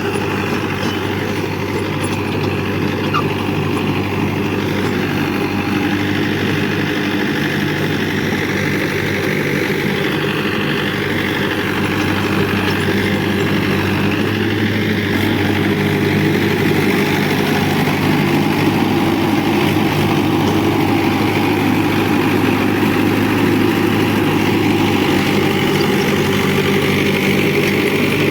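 Tractor engine running steadily with an even, continuous drone, getting slightly louder in the second half.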